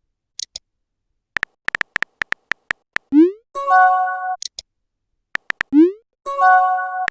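Synthesized electronic music loop. Runs of sharp clicks alternate with short rising sweeps, held chords of steady tones and brief high blips, and the same figure repeats about every three seconds.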